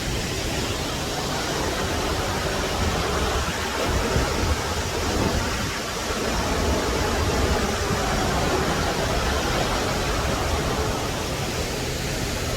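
Waterfall rushing steadily, heard close at its base.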